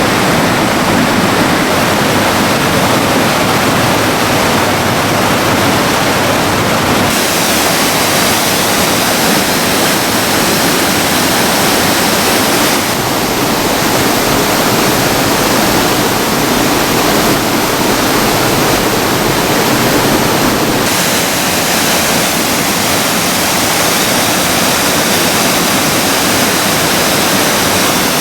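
Loud, steady rushing of storm-swollen river water, its tone changing abruptly several times.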